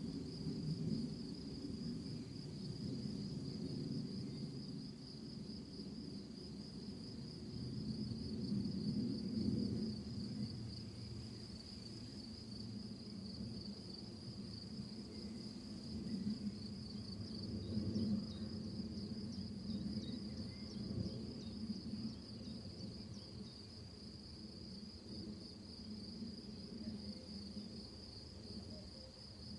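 Crickets trilling steadily in one unbroken high band, over a low rumble that swells and fades.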